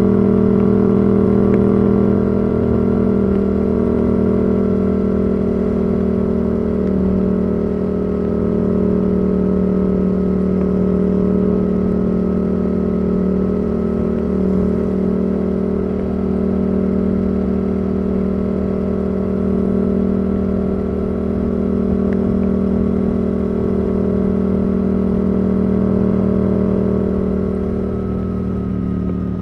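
Yamaha R7's 689 cc CP2 parallel-twin engine through a Yoshimura R77 exhaust, cruising at a nearly constant engine speed, its pitch dropping slightly near the end.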